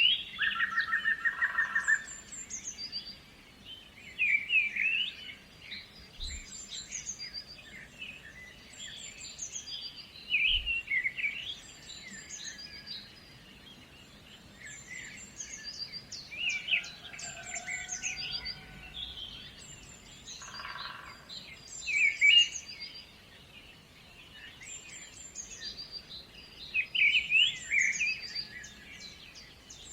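Several songbirds singing and chirping in an overlapping chorus, with a high, short call repeating every few seconds. A fast, even trill stands out in the first two seconds and again about two-thirds of the way through.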